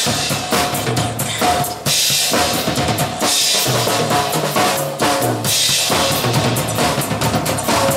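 Drum kit played steadily, bass drum and snare under ringing cymbals, along with the accompaniment of a pop song during a break in the vocals.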